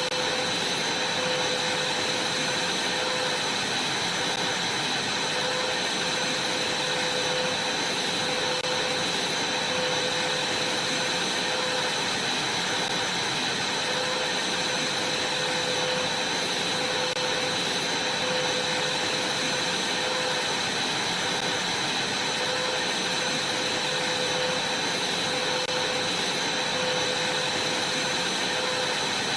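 Vacuum cleaner running steadily while vacuuming a trampoline mat: an even rushing hiss with a steady high whine and a lower hum, unchanging throughout.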